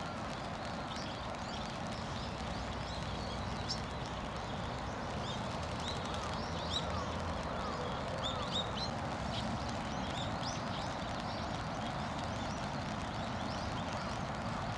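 Steady outdoor background noise with a run of short, high chirping bird calls through the middle, several in quick succession.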